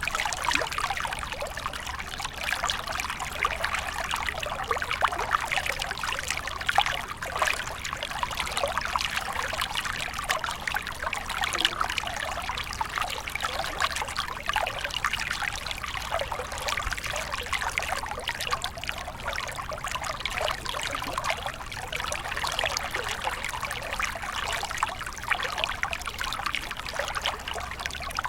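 Small stream of water flowing and trickling steadily, with many small splashes and gurgles.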